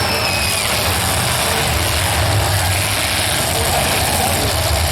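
Demolition derby car engines running with a steady low rumble under a dense wash of noise.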